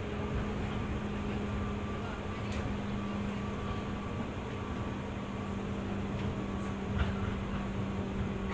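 Cabin sound inside a JR 205 series 600-subseries electric train: a steady low hum over even running noise, with a couple of faint clicks.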